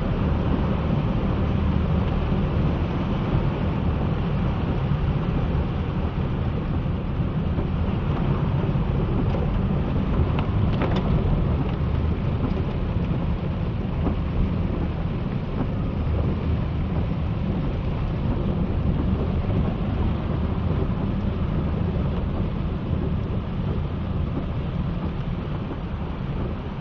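Heavy rain falling steadily, with a deep low rumble underneath, and a brief sharp click about eleven seconds in.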